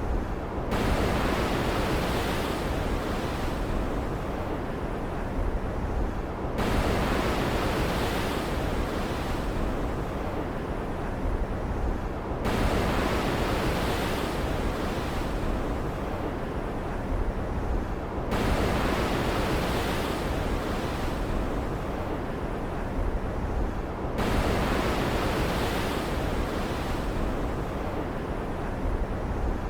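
Steady stormy-sea ambience of ocean surf and rain hiss. The sound shifts abruptly about every six seconds, alternating between a brighter hiss and a duller rush, as in a short repeating loop.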